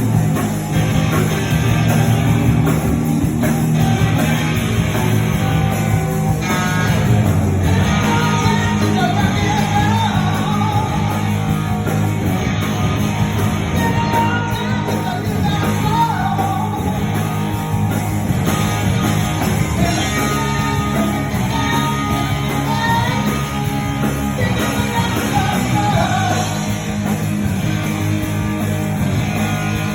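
Live rock and roll band playing, with electric guitar, bass and drums under a man singing lead.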